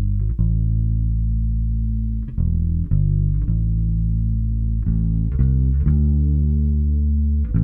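Fender Custom Shop '58-style electric bass with flatwound strings, played through a chorus effect. It plays a slow line of held low notes, each one starting with a fresh pluck.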